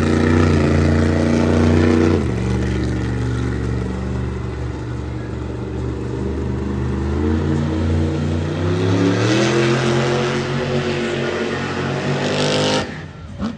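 Monster truck's supercharged V8 engine revving hard: held at high revs, dropping back about two seconds in, then climbing again to a peak before cutting off sharply near the end.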